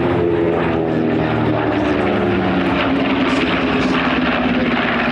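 North American B-25 Mitchell's twin radial engines running loud as the bomber flies past, their drone dropping slightly in pitch as it goes by.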